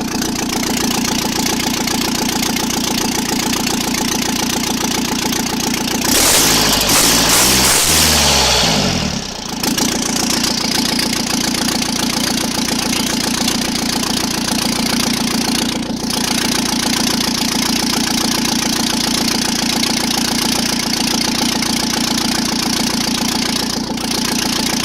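Mitsubishi L200 diesel engine running with no exhaust manifold or turbocharger fitted, so it exhausts straight out of the open ports: loud and steady at idle. About six seconds in it is revved up for a few seconds, then drops back to idle. The even note fits the uploader's check that all cylinders are firing evenly after the repair.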